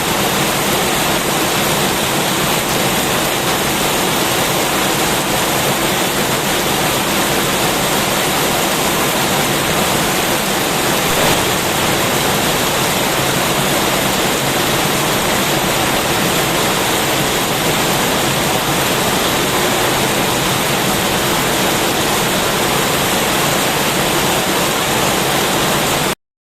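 Heavy rain pouring in a steady, dense hiss that stays at an even level, then cuts off suddenly near the end.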